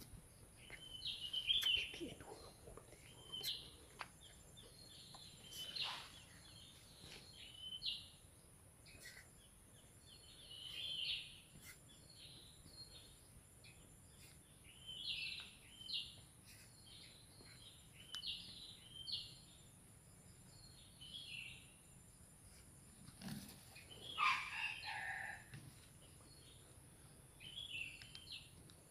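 Faint forest birds calling: short high chirps every second or two, with one louder call about four-fifths of the way through that falls in pitch. A steady high hiss runs underneath.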